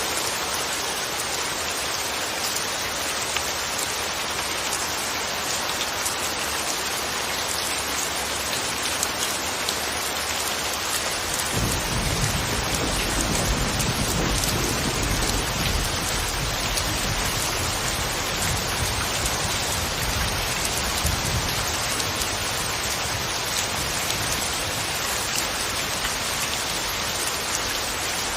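Steady rain hissing, with a low rumble of thunder that comes in suddenly about eleven seconds in and slowly fades away over the next ten seconds.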